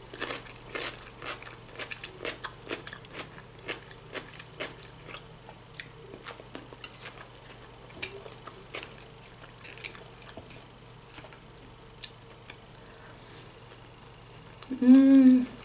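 Close-up chewing of fresh cucumber-and-tomato salad and fried potatoes: soft crunches and wet mouth clicks, thick in the first few seconds and thinning out, with a fork now and then on the plate. Near the end there is a short voiced sound from the eater.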